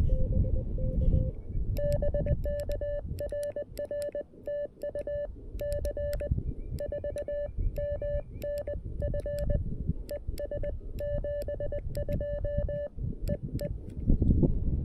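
Morse code sidetone from a CFT-1 QRP CW transceiver: a steady mid-pitched beep keyed on and off in dots and dashes, with a sharp click at each element. It starts about two seconds in and stops shortly before the end.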